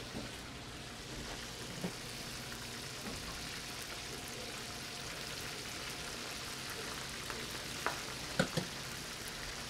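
Tempura-battered salt cod (bacalao) frying in a pan of hot oil: a steady sizzle, with a few brief knocks about two seconds in and again near the end.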